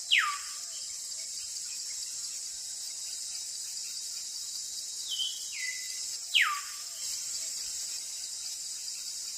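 Steady high insect chorus, with a bird calling over it: a whistle sliding steeply down right at the start and again about six seconds in, and a stepped falling note about five seconds in.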